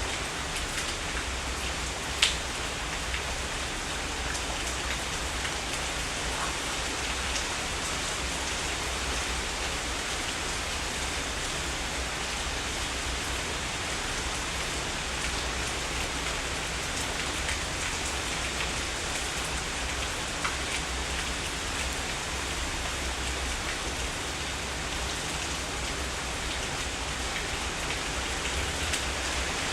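Heavy rain falling steadily, a dense hiss with scattered drop taps and one sharper tap about two seconds in.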